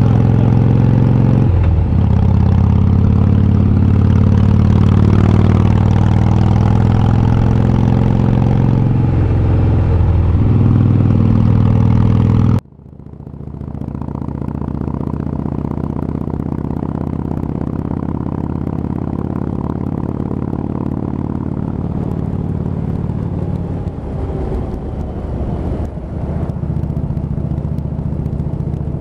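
Harley-Davidson V-twin motorcycle engine running under way, heard loud from the rider's seat, its note dipping briefly twice. About 13 seconds in the sound cuts abruptly to a quieter, steady V-twin motorcycle engine that fades back up and runs on, a little rougher for a couple of seconds near the end.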